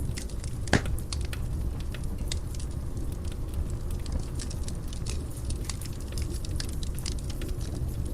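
Fire burning in a fireplace: steady crackling with frequent sharp snaps over a low rumble of the flames, and one louder pop less than a second in.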